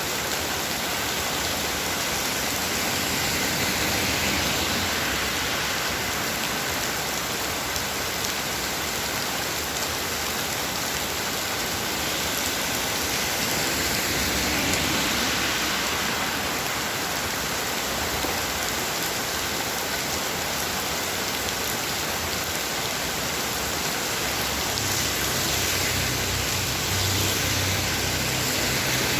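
Heavy rain falling steadily in a dense, even hiss that swells and eases slightly, with a low rumble coming in near the end.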